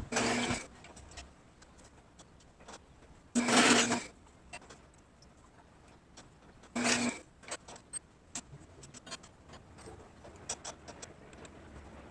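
A small power tool run in three short bursts of about half a second each, with light clicks and taps between them.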